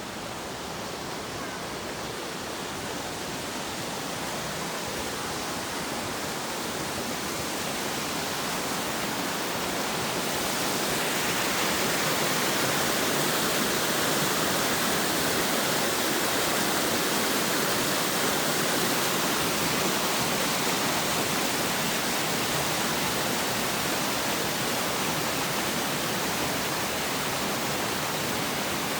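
Rushing water: a steady hiss that grows louder over the first ten seconds or so, then holds at a constant level.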